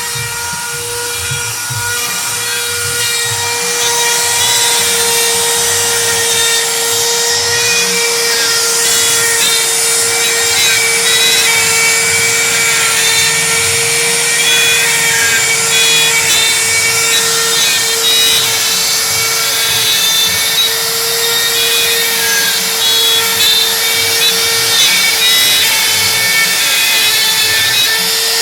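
A 4-axis CNC router's spindle whining at a steady pitch while its bit cuts a fishing lure body. A rasping cutting noise grows louder a few seconds in.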